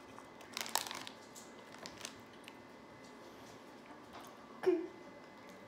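A few soft clicks and rustles as the snack is handled and eaten, and one short murmured 'mm' about three-quarters of the way through.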